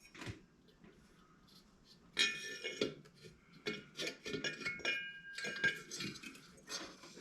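Metal parts of a Vevor 5 kW diesel heater being handled and fitted back together: repeated sharp clinks and rattles, some ringing briefly, mostly from about two seconds in.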